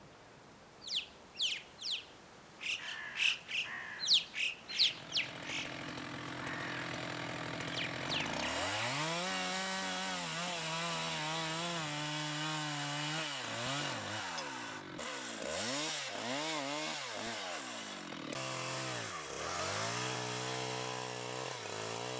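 A few sharp, high chirps, then a chainsaw starts about eight seconds in. It runs on, its engine speed repeatedly dropping and climbing back as it cuts firewood.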